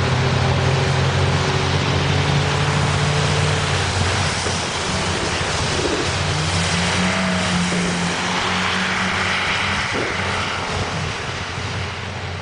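A heavy vehicle's engine running over a loud, even rushing noise, its pitch stepping up about halfway through; the sound fades out near the end.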